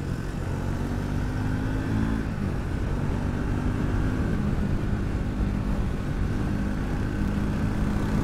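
Onboard sound of a Triumph Speed 400's single-cylinder engine under way, rising in pitch as the bike accelerates about one to two seconds in, then holding a steadier note. Heavy wind and road rumble run underneath.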